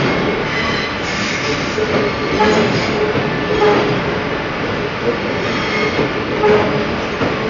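Passenger train moving through the station: steady rumbling wheel and track noise, with short squeals recurring every second or so.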